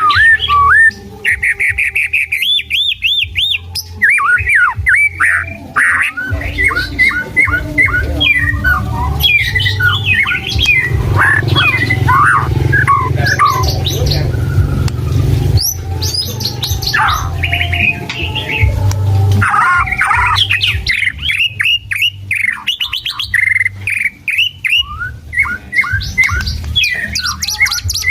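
White-rumped shama singing a long, varied song, switching continually between clear whistles, rapid trills and harsh chattering notes, with a steady low hum underneath.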